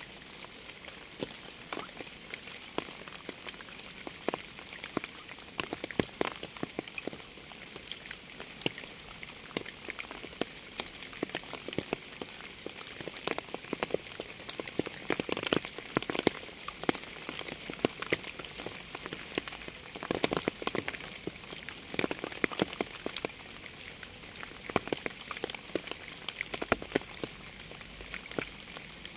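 Steady rain: an even hiss with many close drops ticking sharply on a surface. There are a couple of brief heavier spells, about halfway through and again a few seconds later.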